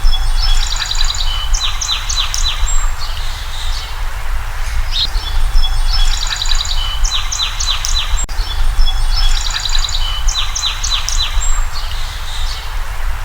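Birds chirping and trilling, the same phrase of quick high chirps coming back about every five seconds, over a steady low rumble.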